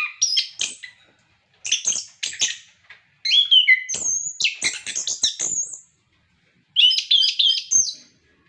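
Orange-headed thrush singing: a run of varied song phrases of quick whistled slurs and rapid high notes, with short pauses between phrases.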